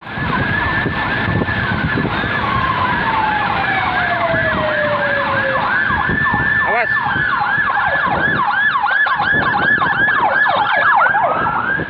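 Police escort sirens wailing in a fast yelp, about three falling sweeps a second, with the noise of moving vehicles underneath. Early on, a second long tone slides slowly down in pitch over a few seconds.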